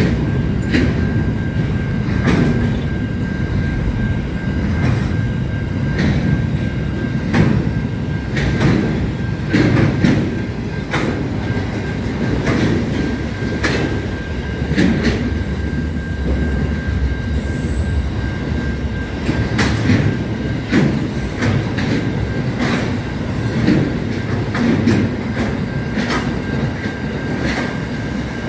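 Long train rolling past at speed: a steady rumble of wheels on rail with sharp clacks roughly every second and a steady high-pitched whine throughout.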